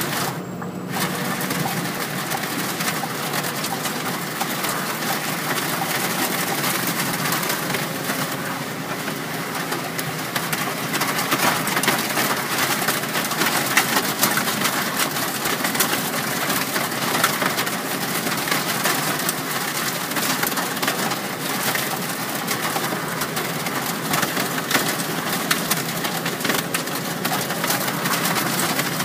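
Heavy storm rain drumming on a moving car, a dense patter of many small hits over steady road and engine noise.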